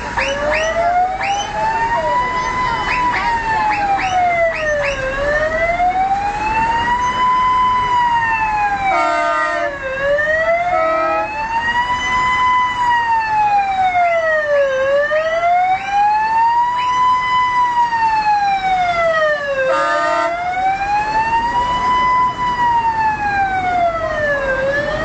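Emergency-vehicle siren wailing slowly up and down, one rise and fall about every five seconds. Quicker overlapping siren whoops sound in the first couple of seconds, and short horn blasts cut in about nine, eleven and twenty seconds in.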